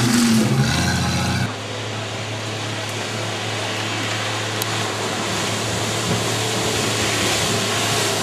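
Off-road 4x4 vehicle's engine running loud as it passes close. About one and a half seconds in it drops suddenly to a steadier, quieter engine note that carries on.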